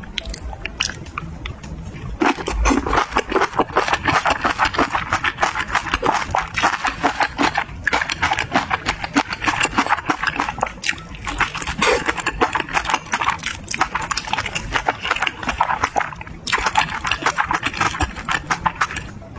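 Close-miked eating sounds: rapid, wet chewing with crackly mouth noises. They start about two seconds in and pause briefly a few times.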